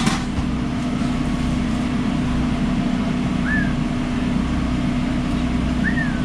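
Steady hum of food truck kitchen equipment running, with a strong low drone. Two short squeaks that rise and fall in pitch come through about halfway and near the end.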